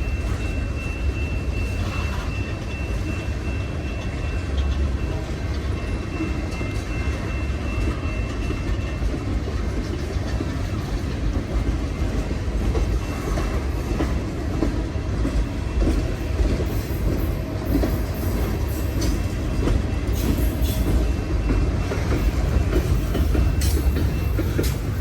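Freight train rolling past, a steady low rumble of its cars on the rails, with wheel clicks over the rail joints in the second half.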